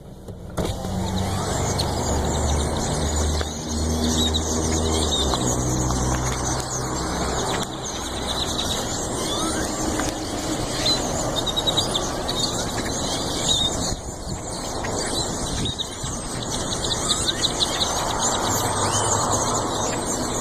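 Dense, unbroken chorus of squeaky calls from a huge flock of birds, with a car engine's low rumble underneath.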